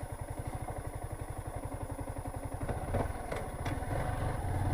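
Motorcycle engine idling with an even putter, about a dozen beats a second. About three seconds in it picks up and runs louder, with a couple of short clicks.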